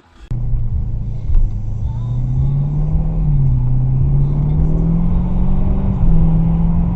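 Car engine running loudly under a low road rumble, its note rising and then dropping back several times as the car drives.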